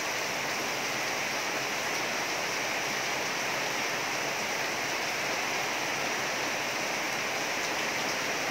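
Heavy tropical rain pouring down in a steady, unbroken hiss.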